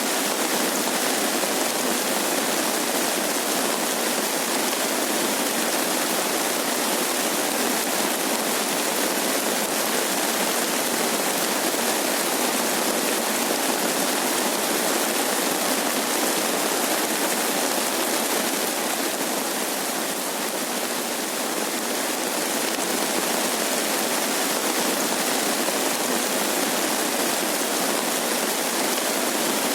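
Steady rain falling, an even, dense hiss with no breaks.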